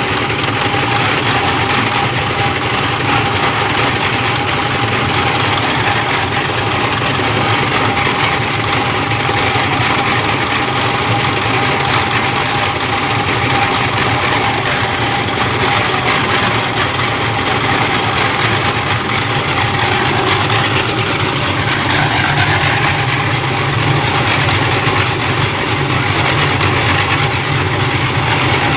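An engine running steadily at one constant speed, with an unchanging drone and a steady whine above it.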